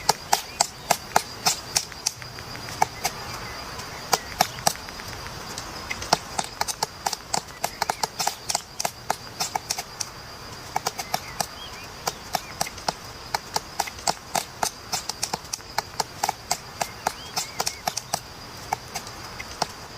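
Woodpecker pecking at wood: sharp, irregular taps several times a second, with short pauses between runs, over a steady high tone.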